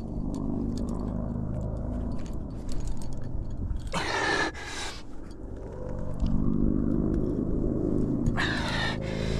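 Rumbling rub and handling noise on a climber's body-worn microphone as he moves on a friction slab. Two short hissing sounds come about four and eight and a half seconds in, with scattered faint clicks between.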